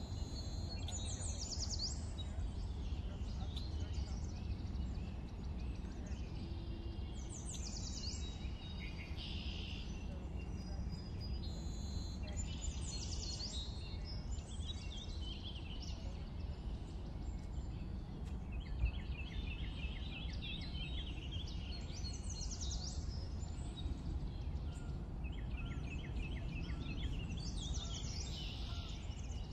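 Small birds chirping again and again over a steady low background rumble, with short rapid trills in the second half and a single sharp click about two-thirds of the way through.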